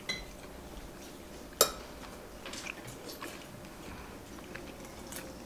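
A person quietly chewing a date, with one sharp knock about a second and a half in and a few faint clicks after it.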